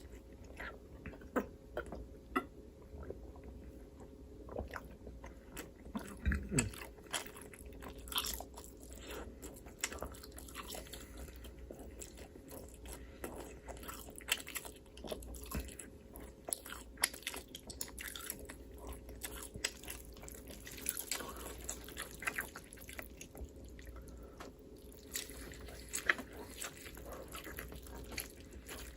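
Close-miked eating: irregular bites and chewing with small crunching clicks, over a faint steady hum.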